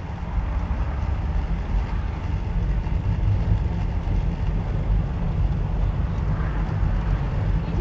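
A car moving slowly under light throttle: steady low engine and road rumble.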